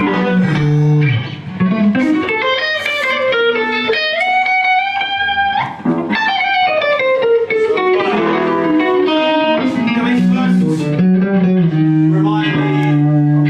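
Electric guitar playing a bluesy passage, a run-through of a song section with bent and sliding notes.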